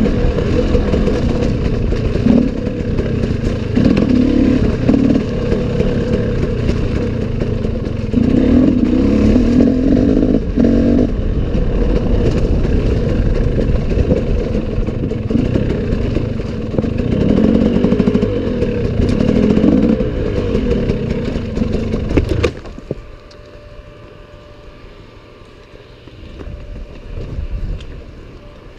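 Enduro motorcycle engine running hard under load over rough ground, its pitch swelling up and down with the throttle, with rattling and clatter. About 22 seconds in it drops suddenly to a much quieter low-revving run.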